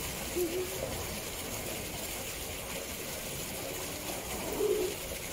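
Two short, low bird calls that rise and fall in pitch, one about half a second in and one near the end, over a steady background hiss.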